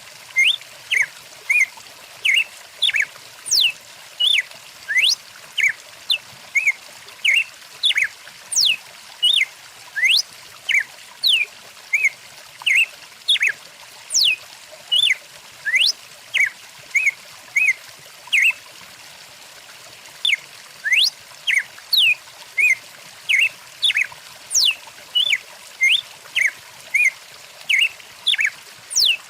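Songbirds chirping busily, with short calls and quick sweeping whistles about twice a second, over the steady rush of a flowing stream. The calls stop briefly about two-thirds of the way through while the water runs on.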